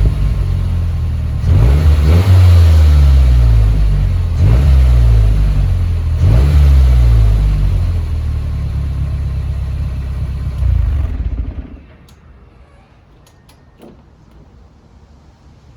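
Mazdaspeed 3's turbocharged 2.3-litre four-cylinder running through a custom 3-inch exhaust with 2.5-inch MagnaFlow mufflers, revved three times and then settling back to idle. The engine sound stops about twelve seconds in, leaving only a few faint clicks.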